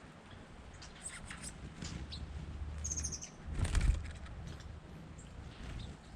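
Small birds at a fruit feeder: a few short high chirps, then a brief flutter of wings, the loudest sound, a little over halfway through.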